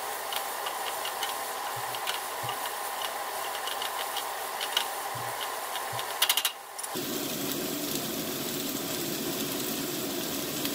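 Sliced onions and red bell pepper frying in olive oil in a paella pan, a steady sizzle, with light clicks and scrapes of a wooden spatula stirring them. A short clatter comes about six seconds in, then the sizzling goes on alone.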